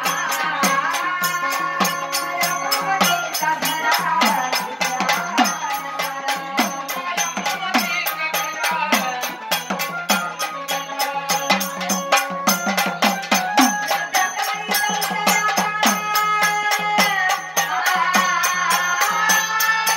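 A woman singing a Marathi folk devotional song to Kal Bhairavnath, with steady rhythmic percussion on every beat.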